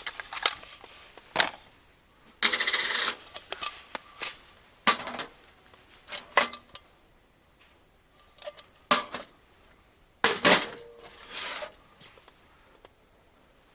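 Small metal objects clinking and clattering as they are handled, in irregular bursts, with two longer rattling spells: one about two and a half seconds in and one about ten seconds in.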